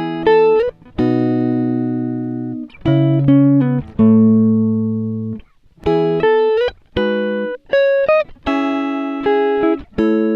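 Background music: a plucked guitar-like melody of struck notes that ring and fade, in short phrases with brief gaps.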